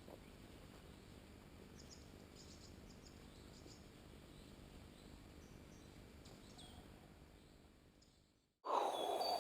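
Very quiet forest ambience with faint, short, high chirps scattered through it. Near the end it cuts abruptly to much louder noise with a steady whistle-like tone.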